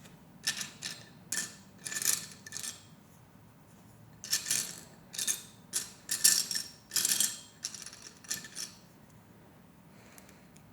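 Small plastic Lego Technic pieces clattering and clicking as they are sifted and handled, in two spells of quick clicks with a short pause between.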